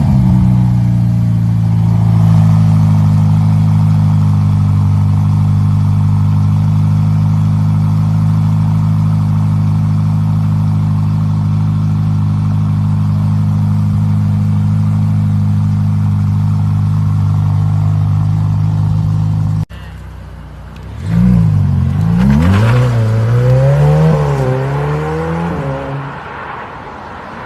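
Ferrari twin-turbo V8 just started, settling from its start-up flare into a steady idle. After an abrupt cut it is blipped through a few quick revs that rise and fall, then drops back toward idle near the end.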